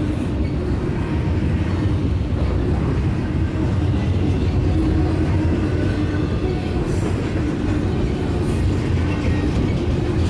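Canadian National freight train's double-stack container well cars rolling past steadily: a continuous low rumble of steel wheels on the rails.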